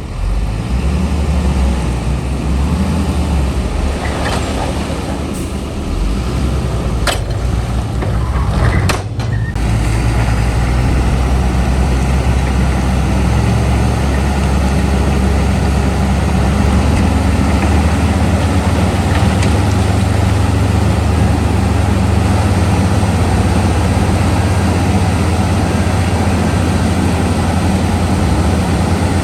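Heavy diesel engine of earthmoving machinery running steadily. There are a few sharp clicks or knocks in the first nine seconds, and then a steadier, stronger low drone from about ten seconds in.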